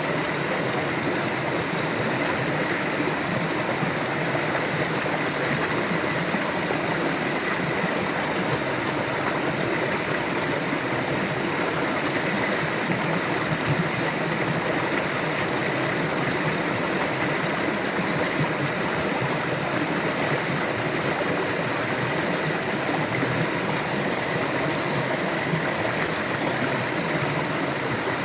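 River water flowing steadily over its bed, an even, unbroken rush.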